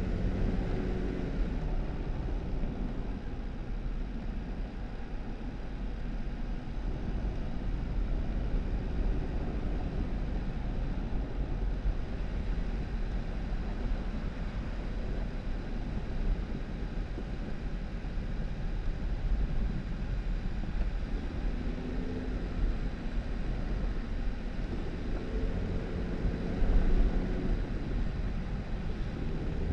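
2018 Jeep Wrangler driving on a snow-covered dirt road: steady tyre and road noise over a low engine rumble, with the engine's tone coming up briefly at the start and again for several seconds near the end.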